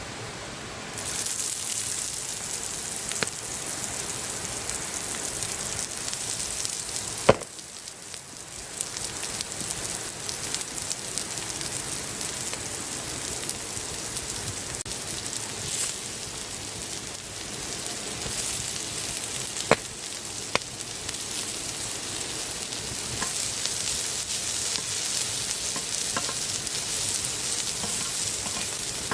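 Food frying on a hot flat stone over a campfire, a steady sizzle that starts about a second in. A few sharp knocks break it, the loudest about seven seconds in, after which the sizzle briefly dies down and builds again.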